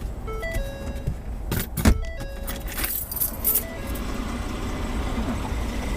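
Steady road and engine rumble inside a moving car, with a short tune of pitched notes repeating every second or two. A few sharp clicks and rattles come about two seconds in, and a brief rustle a second later.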